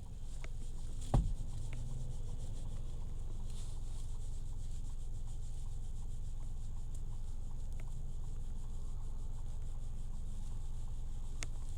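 Steady low rumble of a car moving along the road, heard from inside the cabin, with a single knock about a second in.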